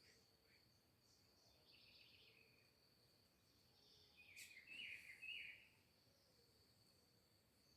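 Faint birdsong: scattered short chirps, with a louder run of chirps about halfway through, over a steady high-pitched buzz.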